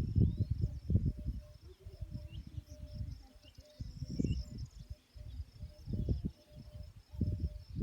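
Insects chirping steadily in a high, even trill, under irregular low rumbling thuds that come and go.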